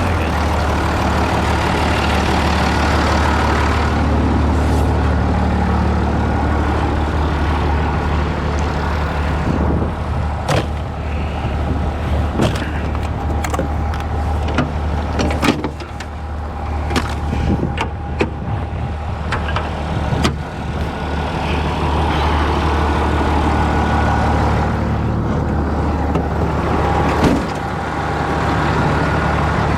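An engine running steadily with a low hum. Sharp clicks and knocks come now and then from about ten to twenty seconds in.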